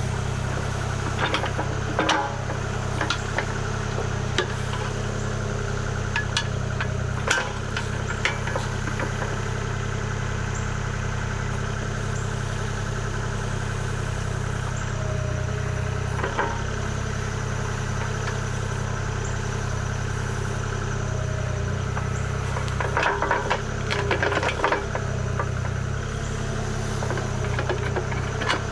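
Kubota KX040 mini excavator's diesel engine running steadily, with scattered sharp knocks and rattles and a cluster of them near the end.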